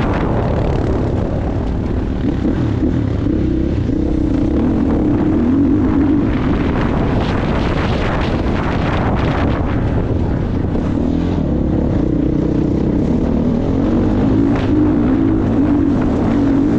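Motocross dirt bike engine running hard, its pitch rising and falling repeatedly as the rider works the throttle around the track.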